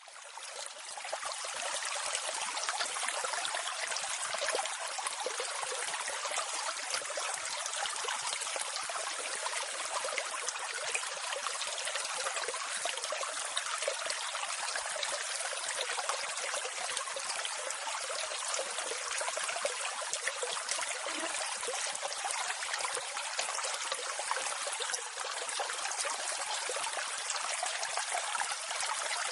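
Water of a waterfall running and splashing steadily, fading in over the first second or two.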